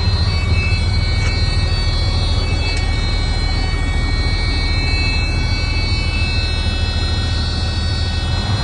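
Diesel engine of a 2000 Freightliner FLD truck tractor running steadily: a heavy low rumble with a steady high whine over it.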